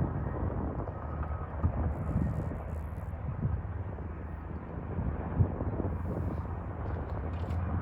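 Wind buffeting the microphone: a steady low rumble with irregular gusty thumps.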